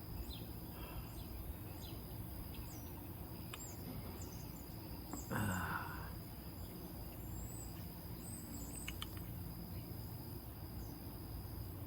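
Outdoor ambience of insects keeping up a steady high drone, with birds chirping intermittently above it. A brief, louder low sound comes about halfway through.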